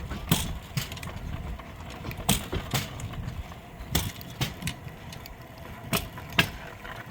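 Pedal-powered rail bike rolling on steel rails, with a steady low rumble and metallic rattling. Sharp clacks come mostly in pairs, several times.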